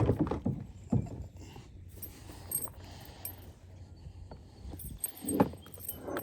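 A quick run of knocks and rattles in the first second, then another short clatter about five seconds in: the angler handling a just-landed bass and gear on a plastic kayak.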